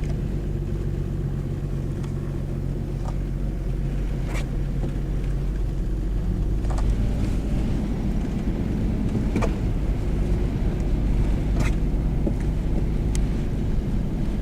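Car running, a steady engine and road rumble, with sharp ticks every couple of seconds.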